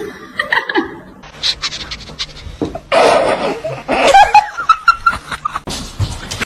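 A person laughing in loud, breathy bursts.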